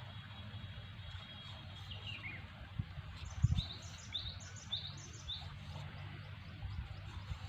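A bird chirping: a high whistle gliding down, then four short rising chirps in a row, over a steady low rumble. A few dull low thumps, the loudest about halfway through.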